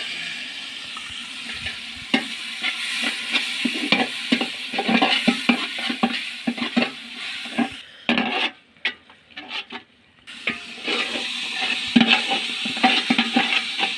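Masala frying in a pan with a sizzling hiss while a spoon stirs and scrapes it, making many quick clicks. The sound drops away for about two seconds a little past the middle, then the stirring and sizzling resume.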